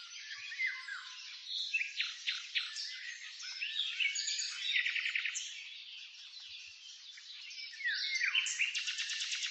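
Songbirds chirping and calling: a jumble of short chirps, quick falling whistles and a rapid trill, all high-pitched.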